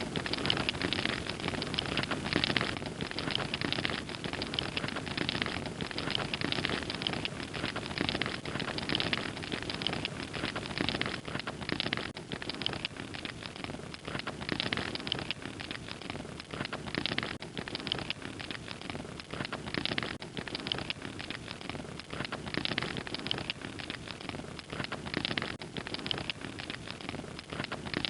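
Wood fire crackling and popping steadily, a dense run of small sharp crackles over a soft rushing bed of flame.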